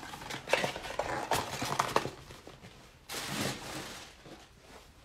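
Trading card packs and a cardboard box being handled: a run of light taps and knocks, then a short rustle about three seconds in.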